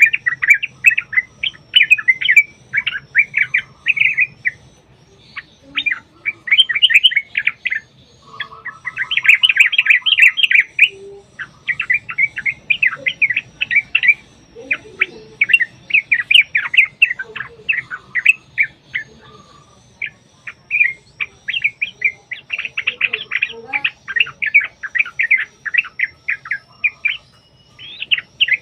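Yellow-vented bulbul (trucuk) singing its rapid, rolling chattering song in repeated bouts of quick bubbling notes separated by short pauses. It is a lure recording meant to set other trucuk birds singing in reply.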